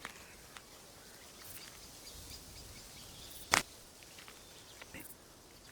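Faint outdoor background with a few soft clicks and one short, sharp snap about three and a half seconds in.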